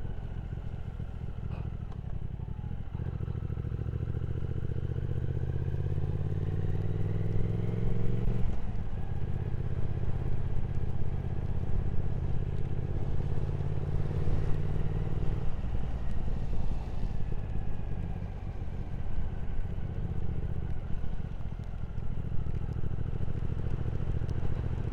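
Motorcycle engine under way, rising in pitch as it accelerates, a gear change about eight seconds in, pulling up again and easing back around fifteen seconds in. Throughout there is a steady rush of wind and road noise.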